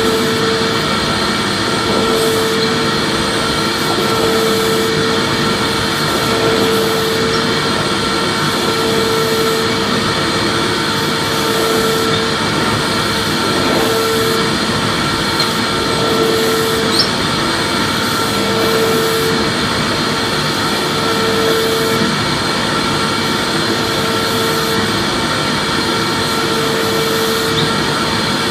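Vacuum cleaner running steadily, a continuous loud whooshing motor noise with a mid-pitched hum that pulses on and off about every two seconds.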